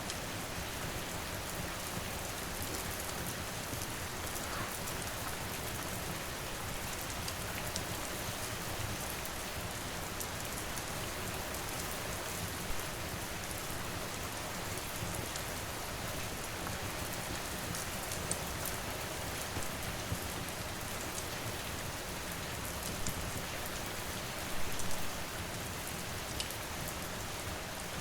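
Steady rain falling, with scattered sharp crackles and pops from a wood fire, a short cluster of them near the end.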